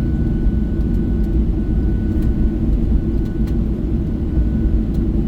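Steady low rumble of a Boeing 737-800's engines and airflow heard from inside the passenger cabin, with a faint thin whine above it.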